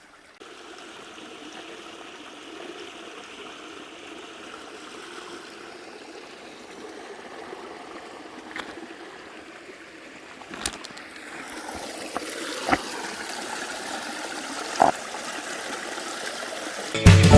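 Mountain valley stream flowing and trickling over rocks in a steady rush, with a few short sharp clicks in the second half. Music comes in right at the end.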